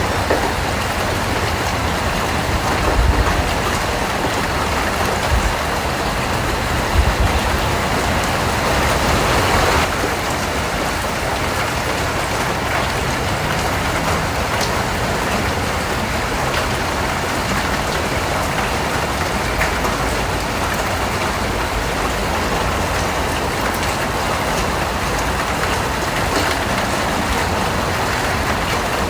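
Steady rain falling, a constant hiss, with a couple of low thuds in the first seven seconds and a brief swell that drops off about ten seconds in.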